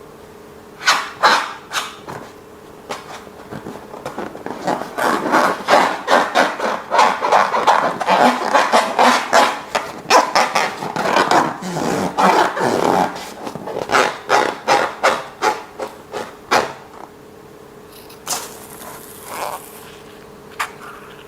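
Slime being squeezed and kneaded by hand: a long run of quick wet clicks and pops, thickest through the middle and thinning out near the end.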